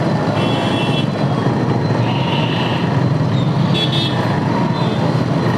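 Dense city traffic noise: a steady rumble of vehicle engines close by, with short vehicle horn toots three times.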